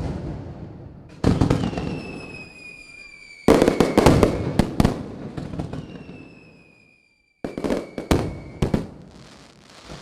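Aerial fireworks going off: loud bangs, some in quick clusters of cracks, each fading into a long rumble. Whistling shells sound thin tones that fall slightly in pitch between the bangs.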